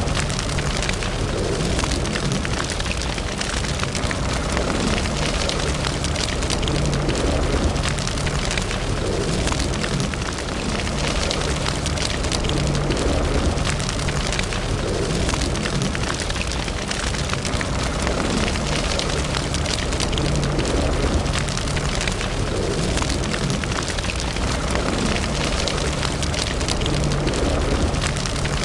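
Fire burning in a fireplace: a steady low rumble of flames with dense crackling and popping of wood.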